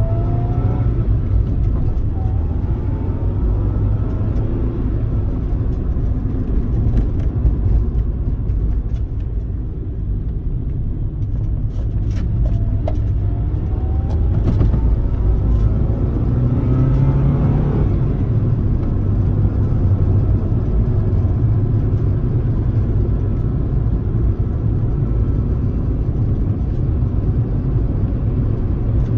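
A 1995 Honda Civic Si's 1.6-litre VTEC four-cylinder engine and road noise heard from inside the cabin while driving. The engine pitch rises as the car accelerates, once near the start and again about halfway through.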